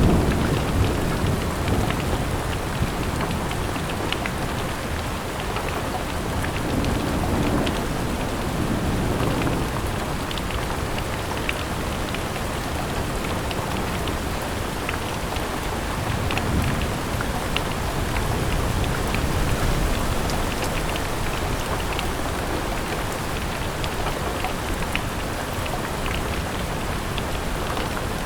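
Steady rain falling, with many individual drops ticking against a surface. A low rumble swells and fades around seven to ten seconds in.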